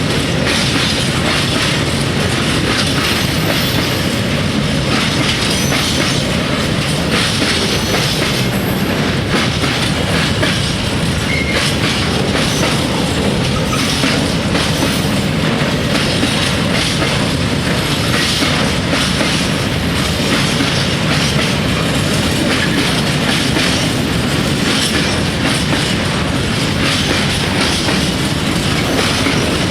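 Freight train wagons rolling past steadily, their wheels clattering rhythmically over the rail joints, with a little wheel squeal.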